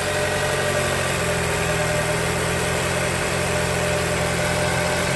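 2020 Toyota Camry four-cylinder engine idling steadily just after a cold start. The engine is shaking from a cylinder 4 misfire that occurs only when it is cold.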